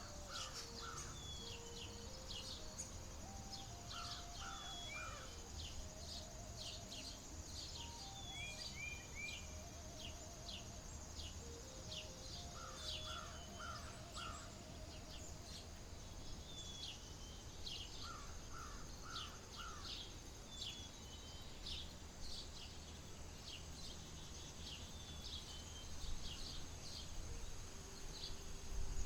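Several birds chirping and calling in overlapping short phrases, with a thin steady trill high above them, over a faint low outdoor rumble that swells briefly near the end.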